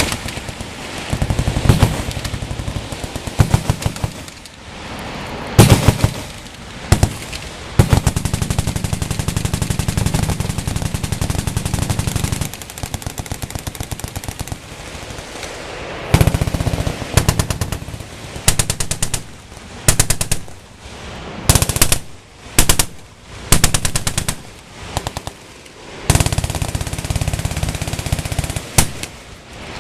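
Several machine guns firing on a range, in long sustained strings and short bursts that overlap and start and stop.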